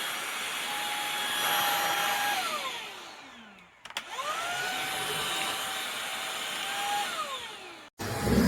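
Shark cordless stick vacuum switched on twice. Each time its motor whine rises quickly to speed, runs steadily for a few seconds, then winds down with falling pitch. The first run dies away about three seconds in, the second starts about a second later, and the sound cuts off sharply near the end.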